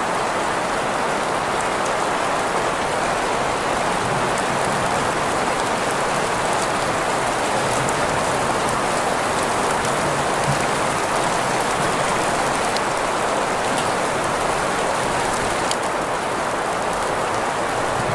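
Steady rain mixed with green noise: an even hiss centred in the middle range, with occasional faint drop ticks above it.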